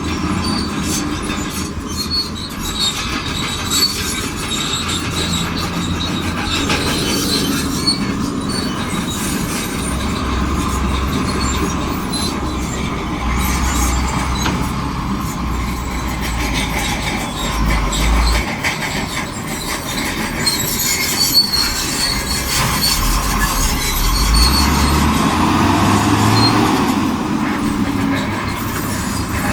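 Shantui DH17C2 crawler bulldozer working under load: the diesel engine's low note rises and falls as it pushes, over the metallic squeal and clank of its steel tracks.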